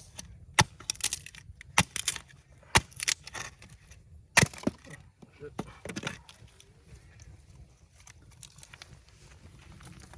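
A series of sharp clicks and knocks, like objects being handled, over the first six seconds, the loudest one about four seconds in, followed by quieter sound.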